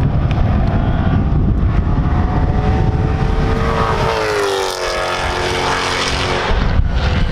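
Mercedes C63 AMG V8 engine under hard acceleration on a race track. The pitch climbs and then drops about four and a half seconds in, as at a gear change or lift, then climbs again.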